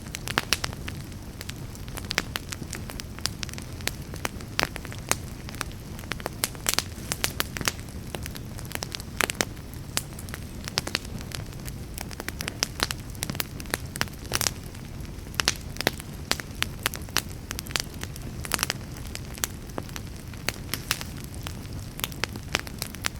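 Wood fire in a fireplace crackling over a low steady rumble, with frequent sharp irregular pops from the burning wood.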